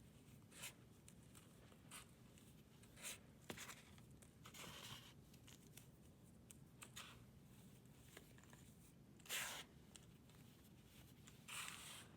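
Brittle material being crushed and crumbled by hand close to the microphone: short crackling crunches at irregular intervals, the loudest about nine seconds in and another near the end.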